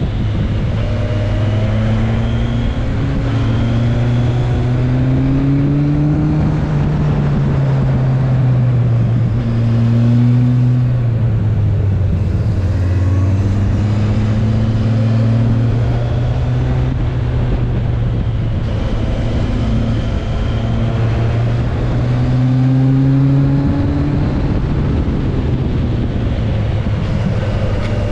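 Inline-four motorcycle engine heard from on board at cruising revs, its pitch rising and falling every few seconds as the rider works the throttle through a run of bends, over steady wind noise.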